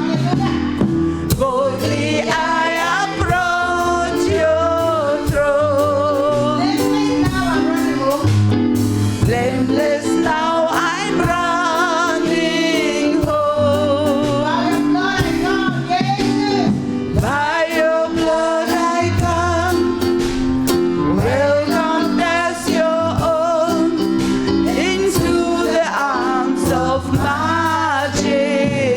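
Live gospel singing with wavering, vibrato-rich vocal runs and held notes over a steady instrumental accompaniment with bass.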